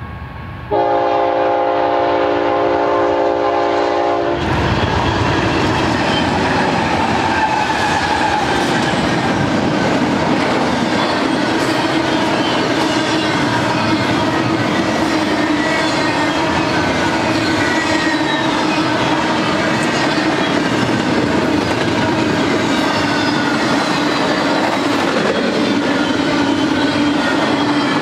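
Diesel freight locomotive's horn sounding one long multi-note chord about a second in, cut off after about three and a half seconds by the loud rumble and clatter of the passing train. A long double-stack intermodal train then rolls by at speed, its wheels clacking steadily over the rail.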